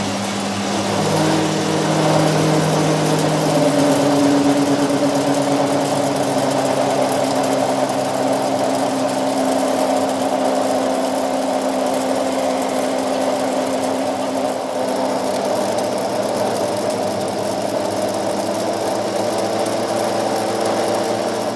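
A machine running steadily, its motor giving a steady hum of several tones that shift a little now and then.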